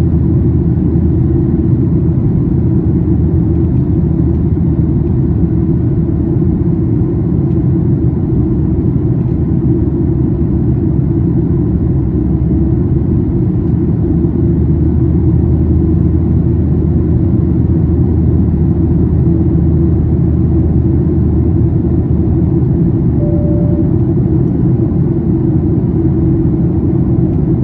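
Steady cabin rumble of a Boeing 737-800 in the climb after takeoff, its CFM56-7B engines and airflow making an even low drone. A brief single tone sounds faintly about 23 seconds in.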